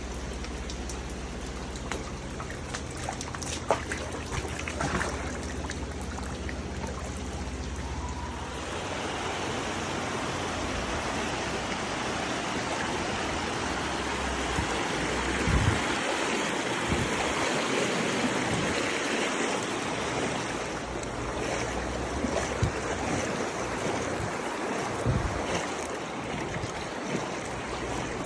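Floodwater flowing: a steady wash of running water that grows fuller about eight seconds in, with a few scattered knocks and splashes.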